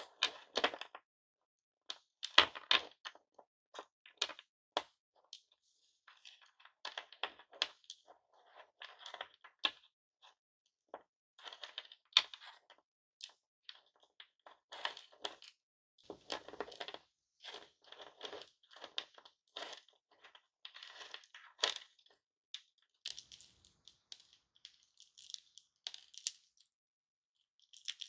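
Hard-candy lollipops and their cellophane wrappers being crushed and crinkled close up, with crunching, crackling and sharp cracks in irregular bursts and short pauses.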